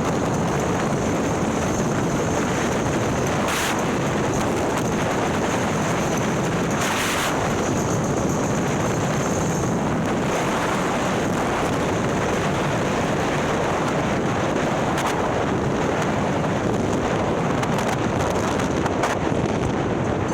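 Wind rushing over the microphone while a 130ci Milwaukee-Eight Harley-Davidson touring motorcycle runs at a steady road speed. It is a constant, even noise, with a couple of short gusts in the first half.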